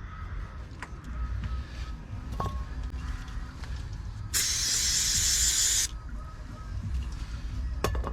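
A can of aerosol brake cleaner spraying in one steady hiss of about a second and a half, midway through. Light clicks and knocks of tools come before and after it.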